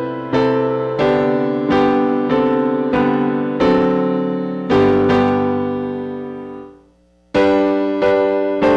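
Piano playing a hymn in struck chords, about one every two-thirds of a second, each fading away. The music fades out for a moment just before seven seconds in, then resumes with a new chord.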